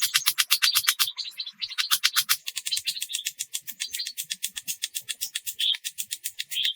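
A calling animal gives a rapid, high-pitched pulsed trill, about ten pulses a second, which changes a little in tone about two and a half seconds in. Short chirps come over it, more of them near the end.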